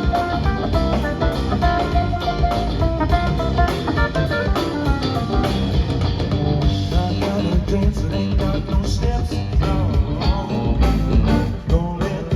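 Live blues-funk band playing an instrumental passage: electric guitar lines over a drum kit.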